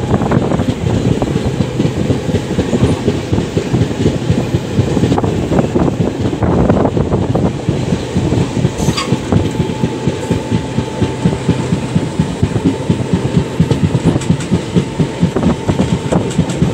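Express train coach running at speed, heard from on board: wheels clattering and rattling over the rail joints in a fast, continuous clickety-clack over a steady rumble. A faint steady whine joins about ten seconds in.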